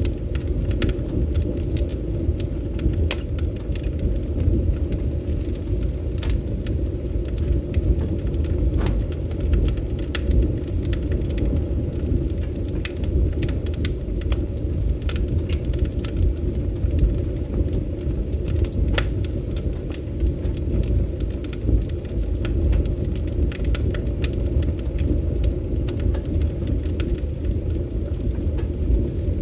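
Fireplace fire burning with a steady low rumble and frequent sharp crackles and pops scattered throughout.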